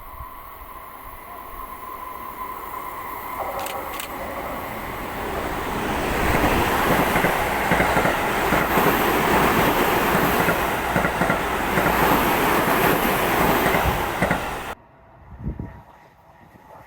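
Seibu 30000 series electric train passing through a station at speed without stopping: the running noise of wheels on rails builds as it approaches, then holds loud and steady for about eight seconds as the cars go by. It cuts off suddenly near the end, leaving much quieter trackside sound.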